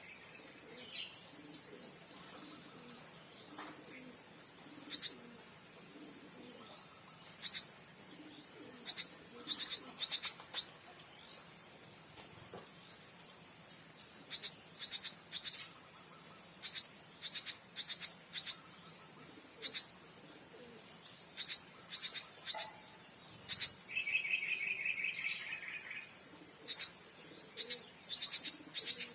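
Blue-crowned hanging parrots (serindit) giving short, sharp, high-pitched calls, often in quick runs of two or three, over a steady high insect drone. A brief buzzy trill comes about two-thirds of the way in.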